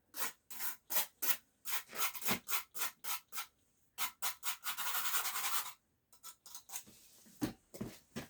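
Rapid back-and-forth scraping of a brick edge being chamfered by hand abrasion, a few strokes a second, with one longer unbroken scrape in the middle and fainter strokes near the end.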